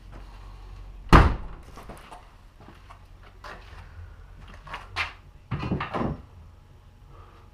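A loud sharp knock about a second in, then scattered lighter clicks and a short clattering rattle around six seconds in, like parts and tools being handled and set down.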